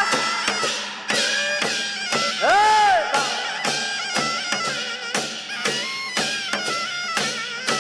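Korean shamanic ritual music: a nasal reed wind melody with a swooping note about two and a half seconds in, over steady, quick drum strokes.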